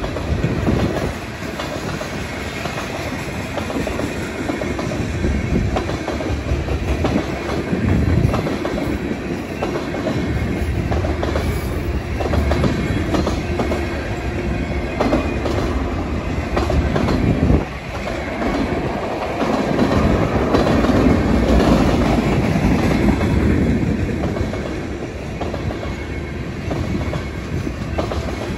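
A Canadian National freight train's cars rolling past at speed, with a steady rumble and the wheels clicking rapidly over the rail joints.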